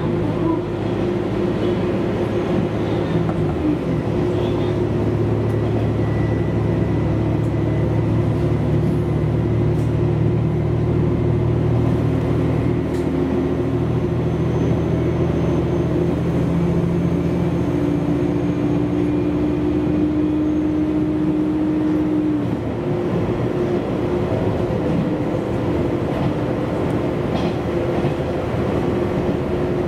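Diesel railcar running along the line, heard from inside the car: a steady engine drone and running noise with a few held tones. About three-quarters of the way through, the low engine tones drop away and only the running noise and a higher tone remain.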